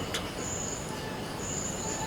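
Insect chirping in short, steady high-pitched pulses, each about half a second long, roughly once a second, over a low background hiss.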